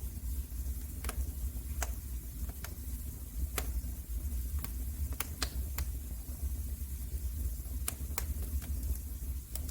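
Fire crackling in a fireplace: irregular sharp pops, about one a second, over a steady low rumble of the flames.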